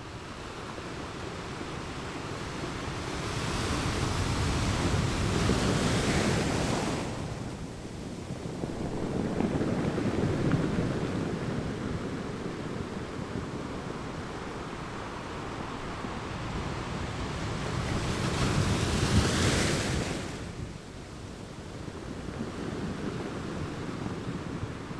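Ocean waves breaking and washing onto a shore, swelling and receding: a big surge about four to seven seconds in, a smaller one around ten seconds, and another big one near twenty seconds, each hissing up the beach and then falling away.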